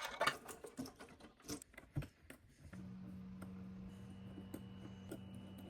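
Scattered light clicks and taps of small parts and tools being handled while the espresso machine is taken apart. About three seconds in, a steady low hum starts.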